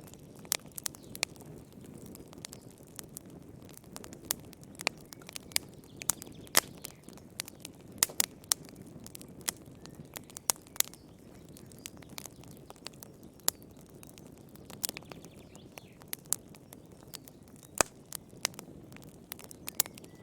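Wood fire burning in a fireplace: a low steady rumble of flames with sharp, irregular crackles and pops, several in quick succession at times.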